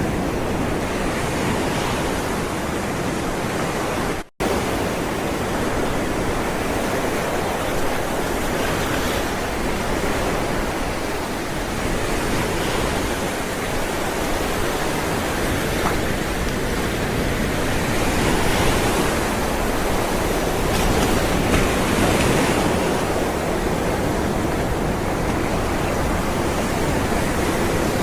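Ocean surf: waves rolling in and washing onto the shore as a steady rush with slow swells. The sound cuts out for a split second about four seconds in.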